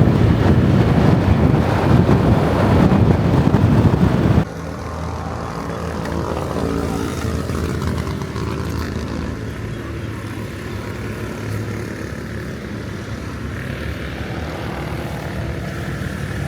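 Wind roaring on the microphone on a moving motorbike for about four and a half seconds, then a sudden cut to a motorbike engine running steadily with a low drone.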